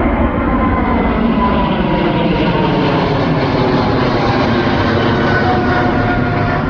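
Airliner's engines passing: a loud, steady rush with faint whining tones that slowly fall in pitch.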